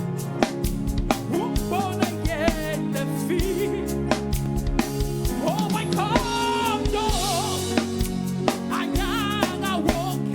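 Gospel praise-and-worship music with a drum kit keeping a steady beat under sustained chords and a singer's voice wavering on long held notes.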